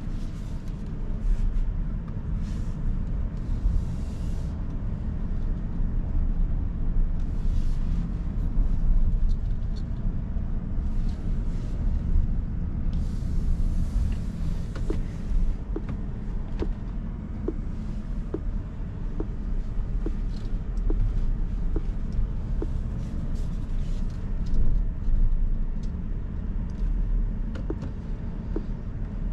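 Steady low road and tyre rumble inside the cabin of a 2023 Rivian R1S Quad Motor electric SUV on the move, with no engine note, and short swells of hiss that come and go. Partway through, light ticks sound about once a second for a few seconds.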